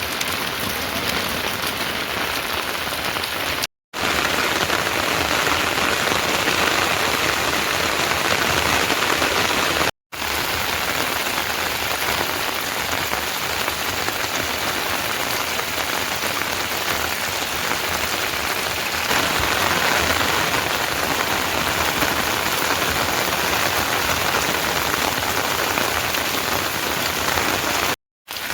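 Heavy rain falling steadily as a dense, even hiss. It drops out for a split second three times.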